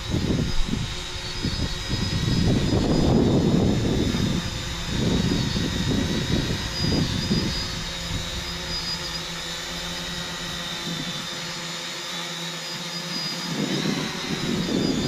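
UpAirOne drone's motors and propellers whining steadily in flight, the pitch wavering slightly. Wind rumbles on the microphone in gusts, heaviest in the first half and again near the end.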